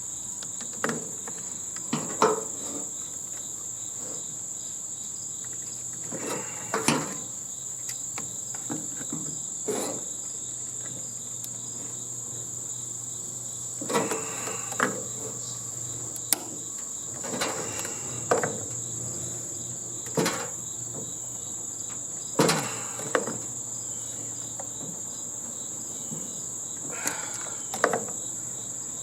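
Scattered metal knocks, clanks and rattles of hand tools and sheet-metal parts as a hotel heating and air-conditioning unit is taken apart, some ringing briefly. A steady high-pitched insect trill runs underneath.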